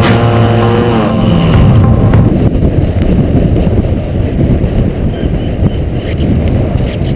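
Model airplane's motor and propeller, heard from the onboard camera: a steady whine that drops in pitch and dies away about a second in, leaving loud wind rush on the microphone as the plane flies on with the power off.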